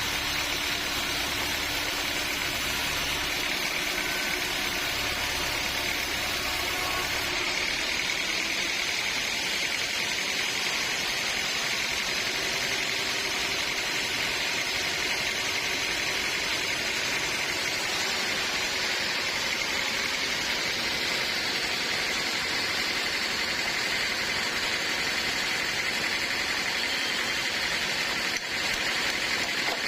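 Band sawmill running steadily, a continuous machine noise with a high whine. A deep low hum drops away about seven seconds in while the machine keeps running.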